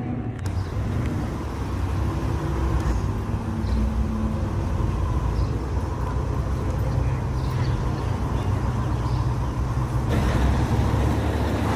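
Car engine running with a steady low rumble, growing somewhat louder and noisier near the end.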